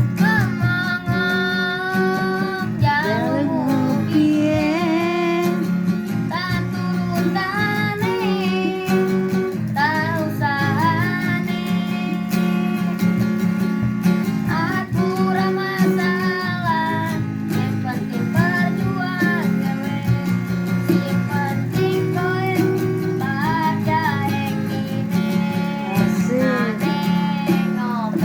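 A child singing a melody with pitch bends over a strummed acoustic guitar.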